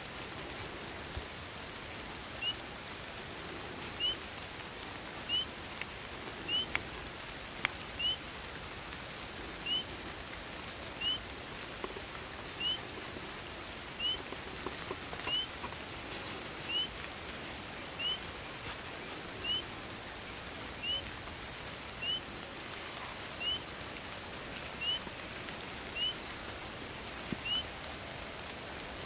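Steady hiss of rain and wind in a night forest, with a small animal's short high rising chirp repeating about every second and a half. A couple of sharp ticks come around seven seconds in.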